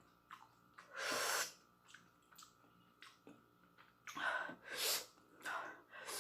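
A person's loud, breathy hiss through the mouth about a second in, then several shorter ones from about four seconds in, made while eating chilli-hot instant noodles.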